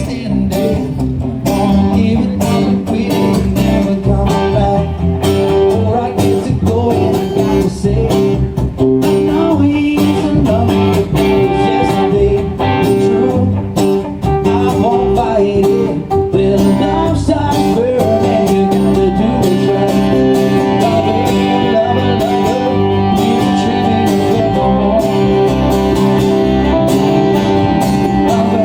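Live music from a small informal group of guitar players, with a voice singing along.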